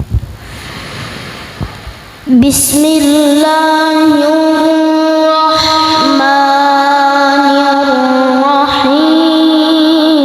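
A child's voice reciting the Quran in the melodic tilawah style, holding long ornamented notes; it starts loudly about two seconds in, after a few soft knocks.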